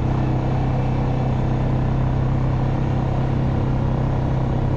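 A vehicle engine running at a steady, even speed while the vehicle drives slowly along a farm track.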